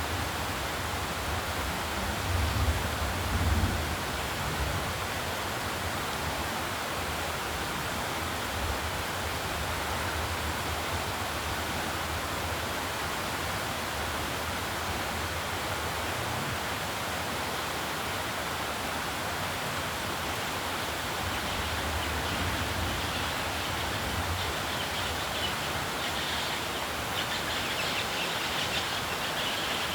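Steady, even rushing noise outdoors, with low rumbling bumps in the first few seconds and a faint high chirring near the end.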